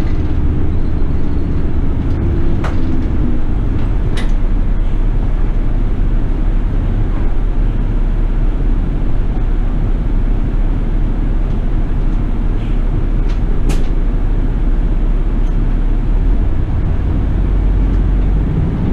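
City bus under way, heard from inside: a steady low engine and road rumble, with three short sharp clicks or rattles.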